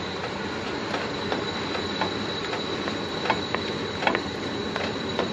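Quesadilla frying in oil in a pan, a steady sizzle with scattered small pops and a thin, steady high whine over it.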